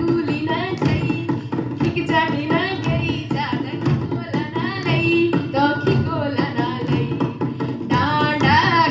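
Garhwali dhol and damau drums playing a fast, dense rhythm of strokes, with singing over the drumming that rises near the end.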